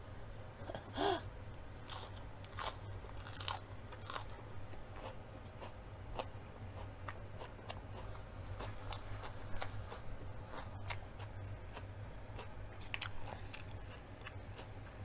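Mouth biting into and chewing raw leafy greens, with several loud crunches in the first few seconds and softer chewing clicks after them. A steady low hum runs underneath.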